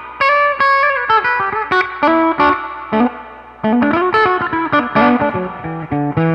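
Electric guitar played through a Mesa Boogie 5:25 Express 1x10 combo amp: a single-note lead line with notes bent and slid up and down between short pauses.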